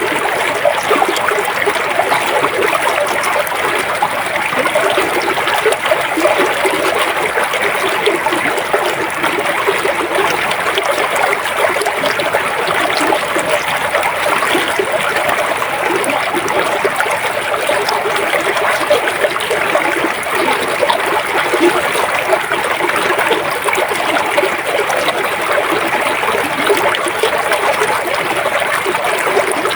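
River water flowing, a steady, unbroken rush of moving water.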